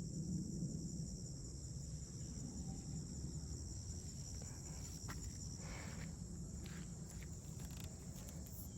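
Steady high-pitched insect chorus, with a low rumble underneath and a few faint clicks and rustles partway through.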